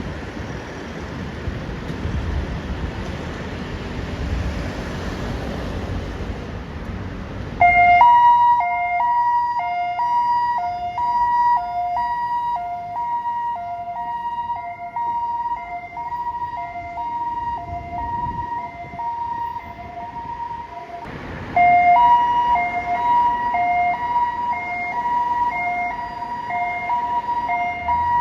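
Ambulance two-tone siren, switching back and forth between a lower and a higher pitch, starting about eight seconds in after a stretch of steady wind and traffic noise. It cuts out briefly a little past twenty seconds and comes back louder.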